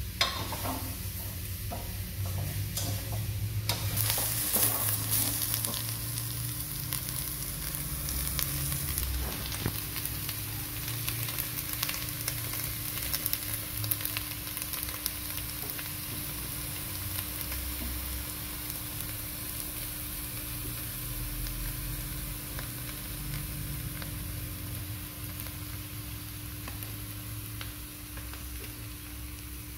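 Fish and squash pieces in a yellow herb paste sizzling in a stainless steel pot, stirred with a ladle. The sizzle is loudest about four seconds in, then settles into a steady hiss.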